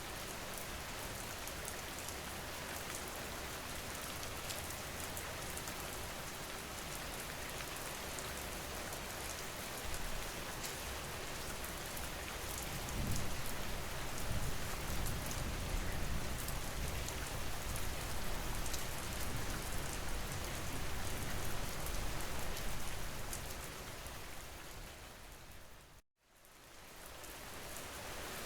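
Steady rain falling, with the patter of individual drops. A low rumble swells in about halfway through and fades away. Near the end the sound cuts out completely for a moment, then fades back in.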